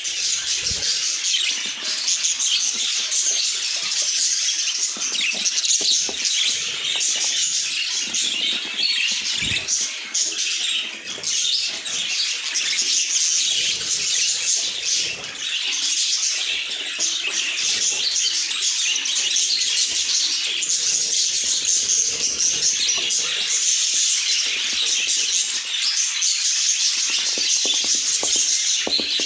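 Budgies chirping and chattering nonstop in a dense, high-pitched warble of many quick notes.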